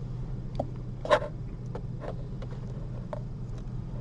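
A few light clicks of surgical instruments handled during suturing, the loudest about a second in, over a steady low room hum.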